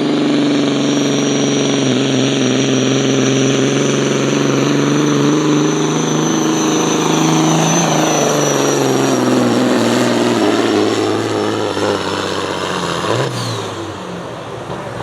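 A pulling vehicle's engine runs at full throttle while it drags the weight sled down the track. The pitch sags slowly under load, and the engine eases off near the end.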